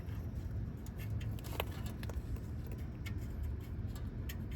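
Faint metallic clicks of nuts and exhaust parts being handled and threaded on, over a steady low rumble.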